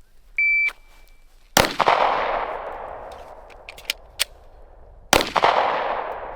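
A shot timer gives its short, high start beep. A pistol fires one shot with a long echoing tail, a few faint clicks of the reload follow, and about three and a half seconds after the first shot a second shot rings out: a one-reload-one drill.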